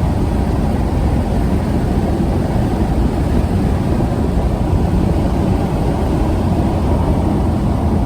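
Steady road, wind and engine noise of a 1992 BMW 535i with its 3.5-litre straight-six, heard from inside the cabin while cruising at highway speed. A low, even rumble with no distinct events.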